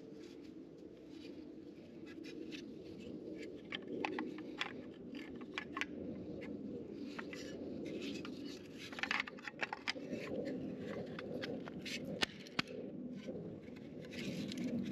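Hand work on parts: scattered clicks, taps and short scrapes, denser about nine to thirteen seconds in, over a steady low background hum.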